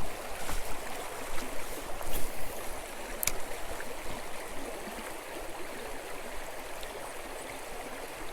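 Creek water running over rocks, a steady rushing. A few sharp clicks sound in the first few seconds.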